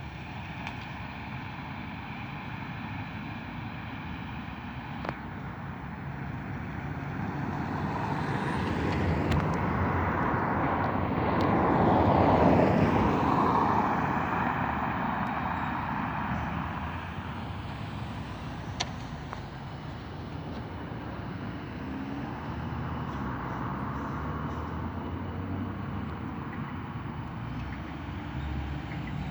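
A road vehicle passes by: engine and tyre noise swells to a peak about twelve seconds in, then fades away, over a steady background of outdoor street noise.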